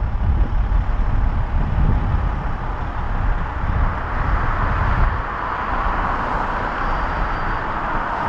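Vehicle engines running with a steady low rumble. About five seconds in, a hiss grows louder over it.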